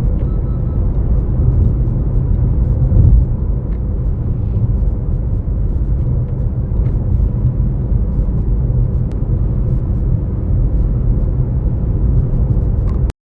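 Steady low rumble of a car driving, heard from inside the cabin: road and engine noise with no clear pitch.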